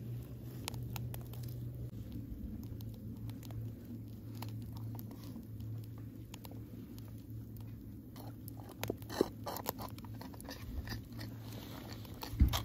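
A person chewing a mouthful of bread sandwich close by, with many sharp crunchy clicks over a steady low hum. There is a single louder knock near the end.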